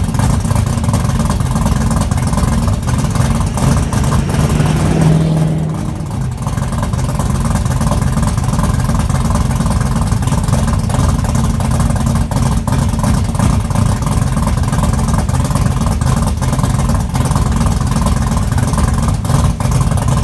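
Small-block Chevy V8 (358 cubic inch, Howard's roller cam, Doug's headers, Pypes Violator mufflers) idling cold with a choppy, pulsing exhaust note. About four seconds in it is briefly revved, rising in pitch, then settles back to idle.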